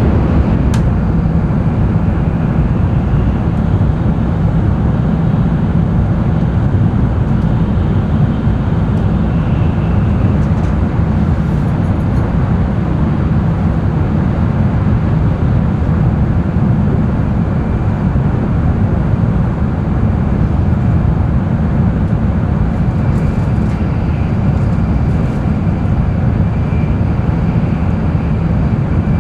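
N700-series Tokaido Shinkansen train running at speed, heard inside the passenger cabin: a steady deep rumble of wheels and track with a fainter hiss above it. One sharp click just under a second in.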